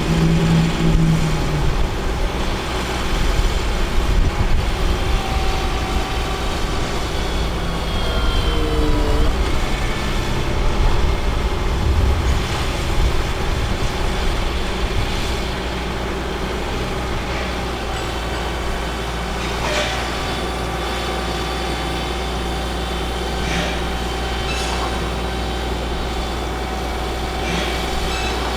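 Caterpillar C7 diesel engine of a Ford F750 bucket truck running steadily. A few short whines slide in pitch about eight seconds in, and sharp clicks come now and then in the second half.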